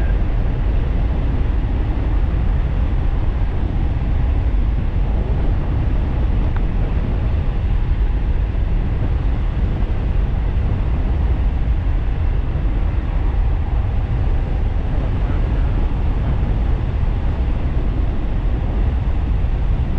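Steady wind buffeting on the microphone of an e-bike rider at speed: a loud, even low rumble with no motor whine standing out.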